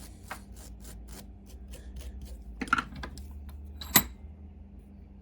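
A run of small clicks and taps from cleaning and handling the small parts of a Mamod SE1 toy steam engine's safety valve, with one sharp click about four seconds in.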